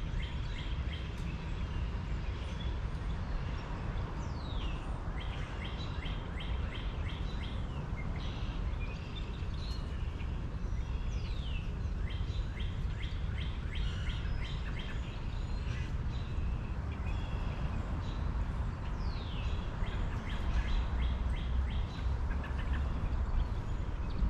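Wild birds calling outdoors: several quick downward-sliding calls and runs of rapid chirps, over a steady low rumble.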